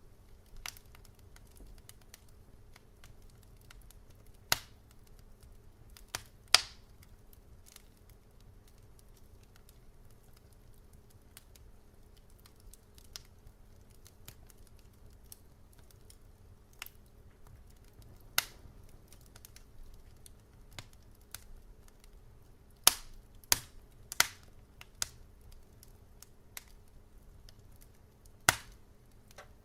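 Wood fire crackling: sharp, irregular pops and snaps, a few loud ones spaced seconds apart with quieter ticks between, over a faint low steady hum.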